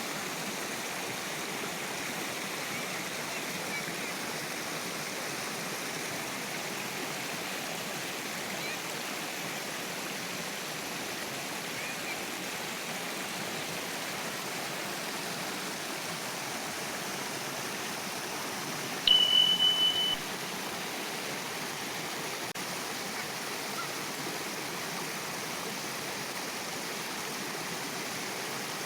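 Flowing river water, a steady rushing babble. About two-thirds of the way through, a loud high-pitched beep-like tone sounds for about a second.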